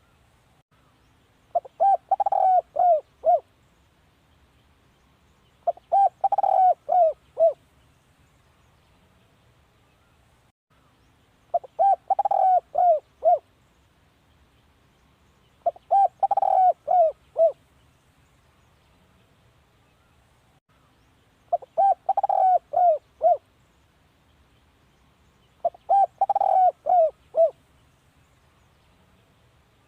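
A spotted dove cooing, a decoy call. It gives six phrases of several quick coos each, spaced about four to six seconds apart.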